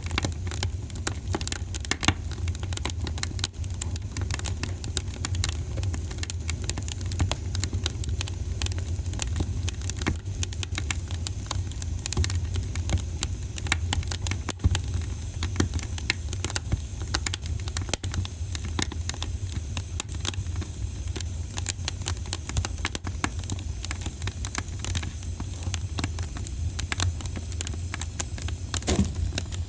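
Wood fire burning in a fireplace: dense, irregular crackling and popping over a steady low rumble, with a sharper pop about two seconds in.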